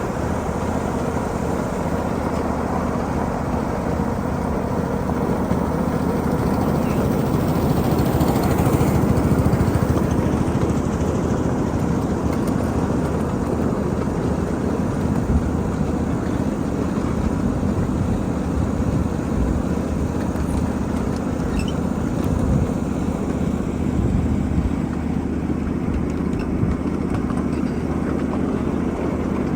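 A 7.5-inch gauge miniature freight train running on its track, heard from aboard: a steady rumble of wheels on rails with a faint low hum and scattered light ticks.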